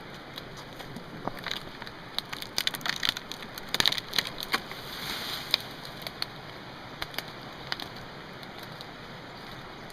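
Irregular crunching and snapping of twigs and dry brush underfoot, densest in the middle with a brief brushing swish, over a steady rushing background noise.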